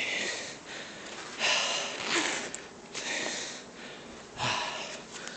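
A man's breaths and sniffs close to a phone's microphone: a few short, hissy breaths about a second apart.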